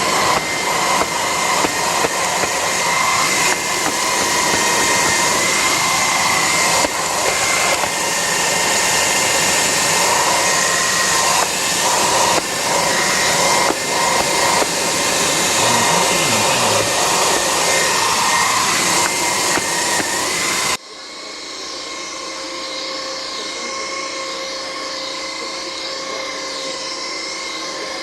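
Electroland Anak cordless stick vacuum running on its high setting: a steady motor whine over loud brush-head noise, with small scattered knocks. About 21 seconds in, the sound drops suddenly to a quieter, thinner whine.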